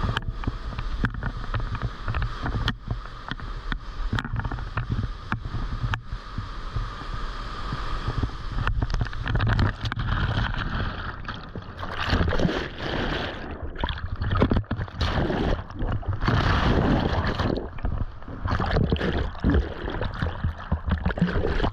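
River water rushing and splashing close to a POV camera, with short knocks and wind buffeting; it grows louder and choppier about halfway through.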